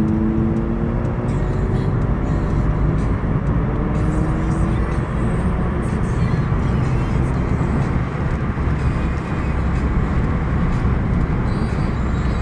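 A car's engine accelerating, its pitch rising and fading out about two seconds in, over a steady outdoor rumble of vehicle noise.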